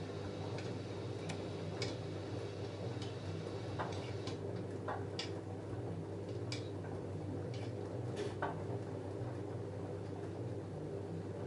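LG F10A8HDS5 front-loading washing machine washing a load of jeans: a steady motor hum with irregular sharp clicks as the tumbling load knocks against the drum.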